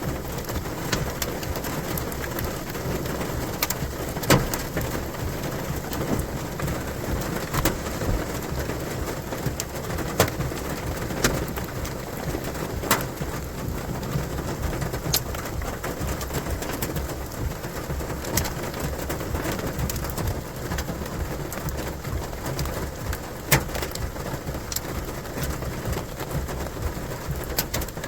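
Steady rain from a thunderstorm, with scattered sharp taps of heavier drops landing every second or two.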